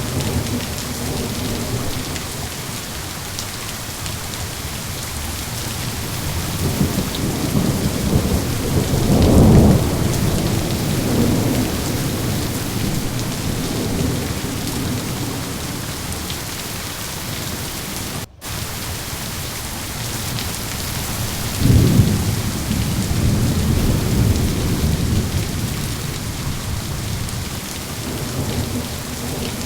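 Steady heavy rain with two rolls of thunder. One rumble builds to a peak about a third of the way in; the second breaks in sharply about three quarters through and rolls off. The sound cuts out for an instant between them.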